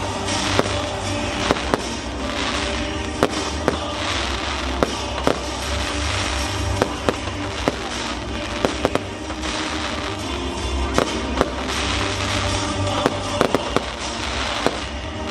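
Fireworks display: repeated sharp bangs and crackling shells, about one or two a second, over a continuous hiss of bursts, with music playing underneath.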